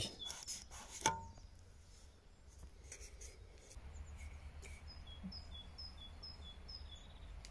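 A small songbird singing faintly, repeating a short two-note phrase, a higher note then a lower one, about twice a second, starting around halfway through. A single light knock comes about a second in.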